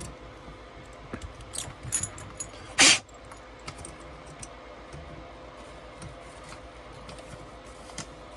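Small hard parts being handled: scattered light clicks and rattles, with one louder, brief clatter about three seconds in.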